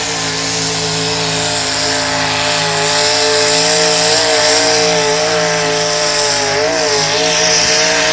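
Engine of a competition pulling vehicle running flat out at high revs, a loud steady drone that wavers slightly in pitch and dips briefly near the end, over a heavy hiss of exhaust noise.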